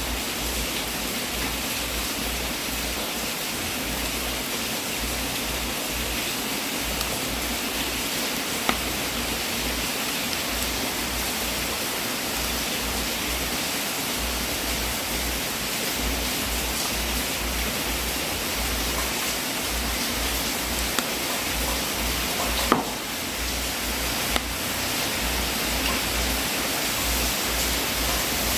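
Wood fire burning in a fireplace: a steady crackling hiss with a few sharper pops, the loudest about two-thirds of the way through.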